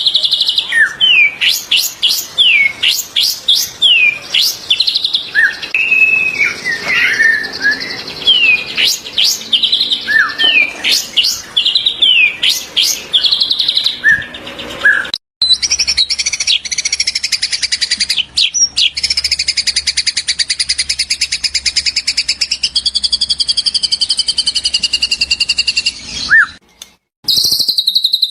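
White-rumped shama (murai batu) singing: quick varied whistles and sharp rising chirps, then, after a brief break about halfway, a long fast trill held for about ten seconds.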